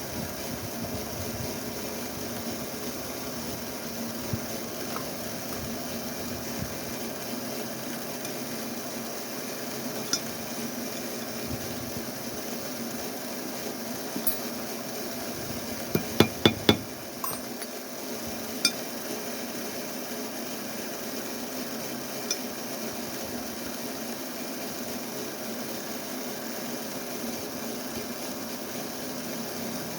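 Small metal parts and tools clicking and clinking during workbench assembly, with a quick run of four sharp knocks partway through, over a steady low hum.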